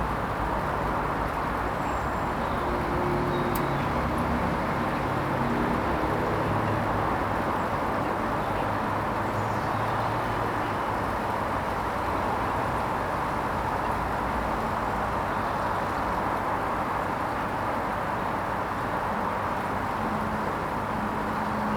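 Hoover Vision HVP16 washing machine draining on its Silks 30 programme: a steady drain-pump hum and rush of water, with faint low tones shifting in pitch.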